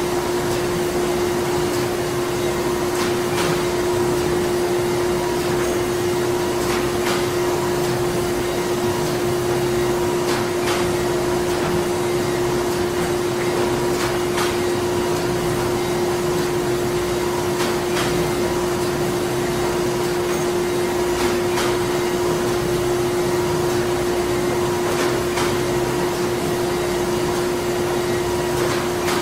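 Printing plant ambience: machinery running with a steady hum, a constant drone and faint clicks every few seconds.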